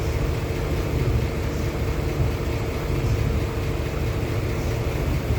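A machine running with a steady low drone and a hum that cuts off about five seconds in.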